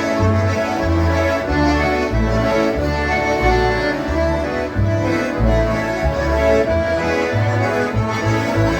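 Live polka music led by concertinas playing sustained reedy chords, with a bass line stepping from note to note beneath them.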